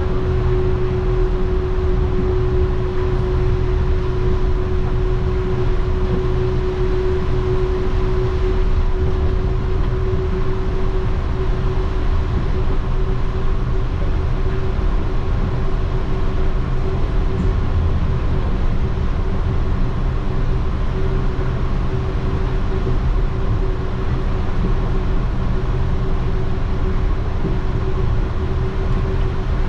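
Yurikamome rubber-tyred automated guideway train running at steady speed, heard from inside the car: a constant low rumble of tyres on the concrete guideway with a steady hum held throughout.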